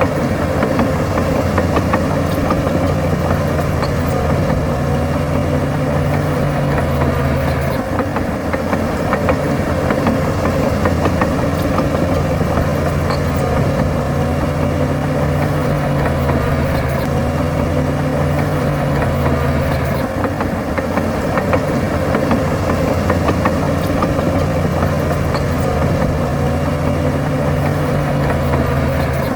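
Heavy diesel engine of earthmoving machinery running steadily, its low drone shifting slightly in strength every few seconds as the load changes.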